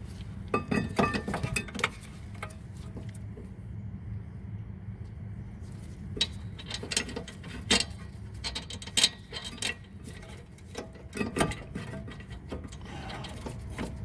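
Scattered metallic clicks and clinks of a rear brake caliper bracket being handled and set in place on the hub, in a few short clusters, over a steady low hum.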